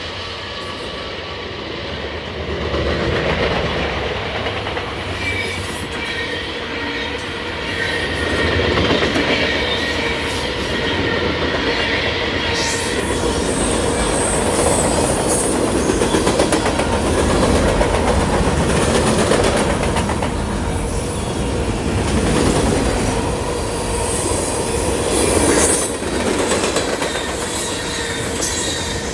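Freight train cars rolling past at speed: a steady rolling clatter of steel wheels on the rails, which grows brighter in the treble about halfway through.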